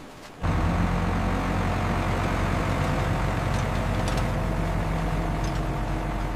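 A recovery truck's heavy engine running steadily, cutting in abruptly about half a second in, with a few faint metallic clicks.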